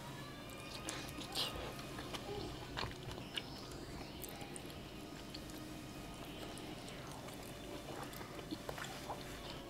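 Close-up chewing of a large steamed chive-and-tofu dumpling: soft, wet mouth clicks and smacks scattered through.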